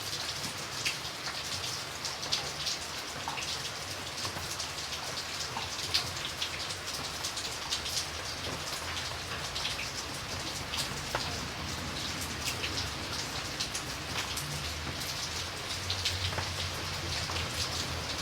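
Steady rain falling on a surface, a dense patter of individual drops over a continuous hiss, with a low rumble underneath that grows a little louder near the end.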